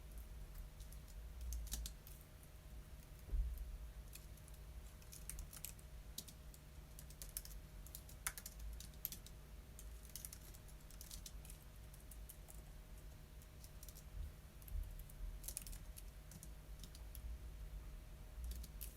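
Typing on a computer keyboard: irregular runs of keystrokes with short pauses between them. There is a single soft thump about three seconds in, over a low steady hum.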